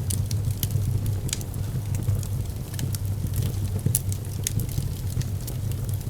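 Wood fire crackling in a fireplace: irregular sharp pops and crackles, several a second, over a steady low rumble of the flames.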